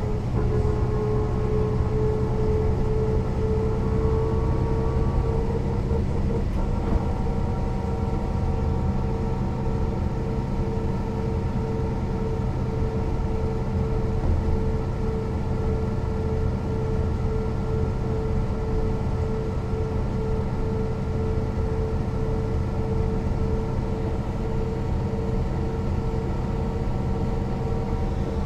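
Mercedes-Benz O 405 NÜ bus's six-cylinder diesel and drivetrain running steadily under way: a low drone with a clear whine that rises slightly over the first few seconds, then holds level.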